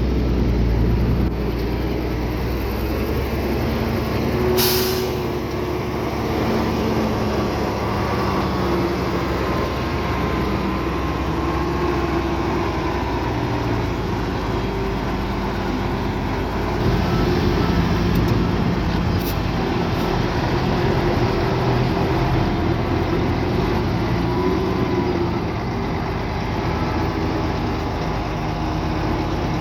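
Heavy diesel engines of earthmoving equipment running steadily, their pitch wavering a little under load. About four and a half seconds in comes a short sharp hiss of air, like a truck's air brake releasing, and there are a few light clicks later on.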